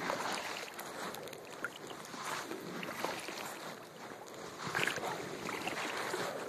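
Kayak paddle strokes in the water, each stroke bringing a swell of splashing and swishing about every second or two over a steady wash of water noise.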